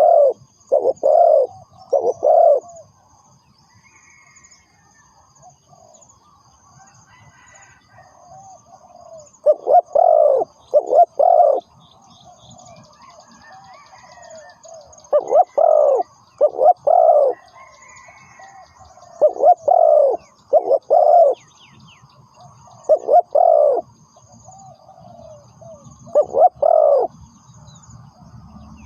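Spotted dove calling: repeated phrases of two or three low, throaty coos, one phrase every few seconds. A faint, steady high trilling and a few small chirps run underneath.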